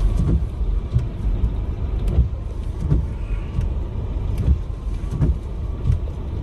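A motor vehicle running with a steady low rumble, broken by short thumps about every three quarters of a second.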